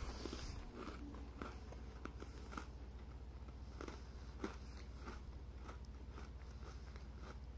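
A person chewing a chocolate hazelnut Oreo cookie: faint, irregular crunches about twice a second.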